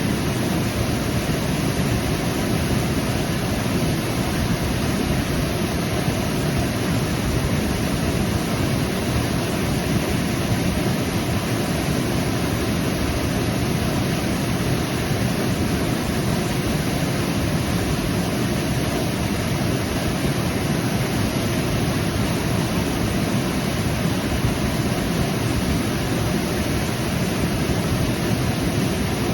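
Waterfall: water falling and rushing steadily, a dense, even roar of noise with most of its weight in the low range.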